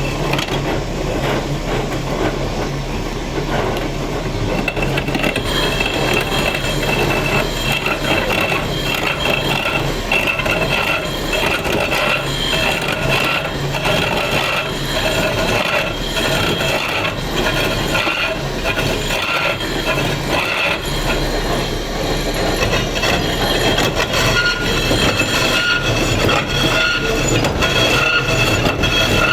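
Stone being worked with a power tool, grinding or cutting: a steady scraping noise, with a high squeal that comes in about five seconds in and holds.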